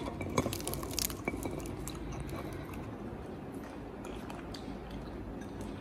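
Small wet clicks and squishes of pomegranate arils being chewed by a baby macaque and pulled from the fruit by hand, most of them in the first second and a half.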